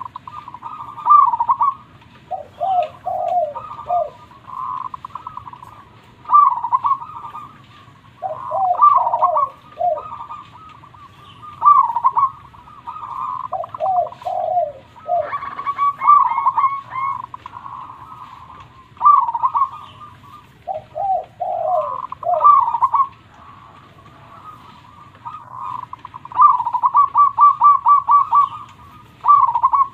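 Zebra dove (perkutut) cooing, repeating its phrases every few seconds with lower notes in between, and a quick run of short notes near the end.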